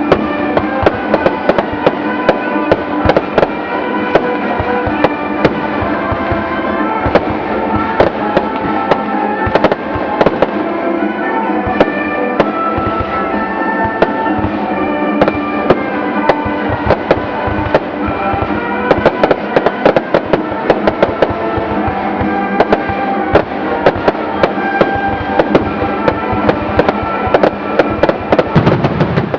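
A fireworks display: shells bursting in quick succession, many sharp bangs and crackles, over continuous music. A heavier, deeper boom comes near the end.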